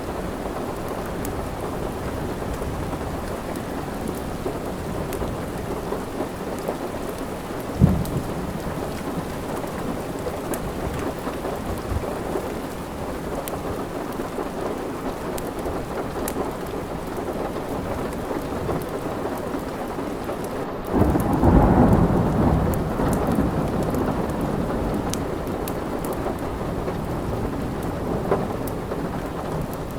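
Steady rain with a roll of thunder that comes in sharply about two-thirds of the way in and slowly dies away. A short sharp thump sounds near 8 seconds in, and scattered faint crackles of a wood fire run under the rain.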